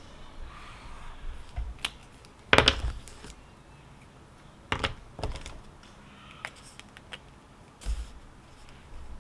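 A few irregular sharp clicks and taps over a faint steady background, the loudest a short cluster about two and a half seconds in.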